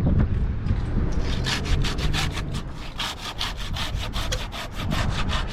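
Hand saw cutting through a tree limb in quick, even strokes, about six a second, starting about a second and a half in, after some rustling and handling noise.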